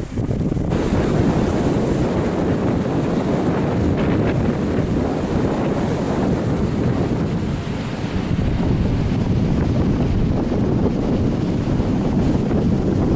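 Wind buffeting the microphone on the open deck of a river cruise boat: a steady, heavy rush of noise, with the boat moving through the water beneath it.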